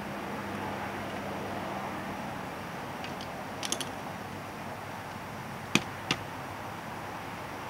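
Short clicks from hand work fitting a motorcycle muffler: a small cluster of light clicks about three and a half seconds in, then two sharper clicks a third of a second apart about six seconds in, over a steady background hiss.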